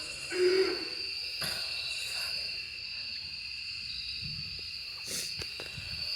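Night ambience: crickets chirping steadily, with an owl hooting once about half a second in.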